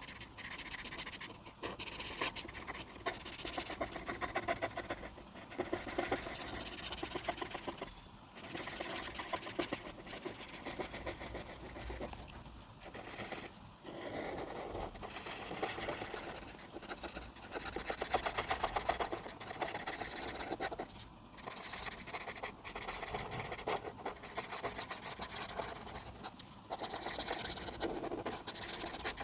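A coloring tool scratching on a paper coloring page in rapid back-and-forth strokes. The strokes come in runs of a few seconds with brief pauses between them.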